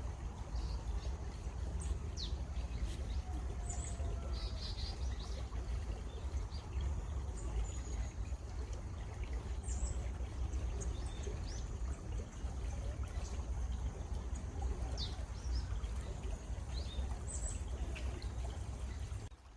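Flowing stream water running steadily, with songbirds giving short, scattered chirps over it. The water sound drops away briefly right at the end.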